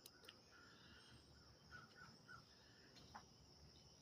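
Near silence: faint outdoor ambience with a steady high insect-like hum, a few faint short chirps and one or two soft clicks.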